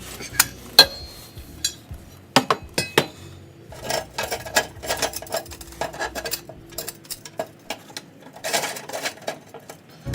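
Metal clanking and clinking as metal exhaust parts and hardware are handled: a few sharp knocks, one or two with a short ring, then about a second before the middle a run of quicker rattling clatter.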